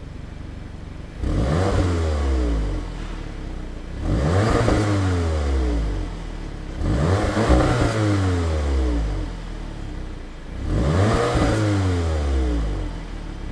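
2017 Audi TTS's turbocharged 2.0-liter inline-four revved four times at a standstill. Each time the pitch jumps up quickly and then falls back to idle over about two seconds.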